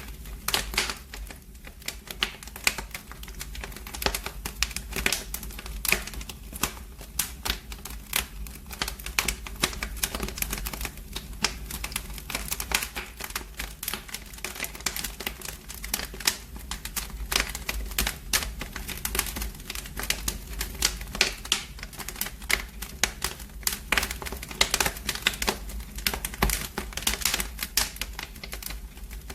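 Fire in a fireplace crackling: a dense, irregular run of sharp crackles and pops over a steady low rumble.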